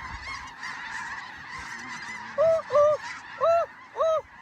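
A large flock of snow geese calling in a dense, steady chorus. In the second half come four loud, close single honks, each an arched call about half a second apart.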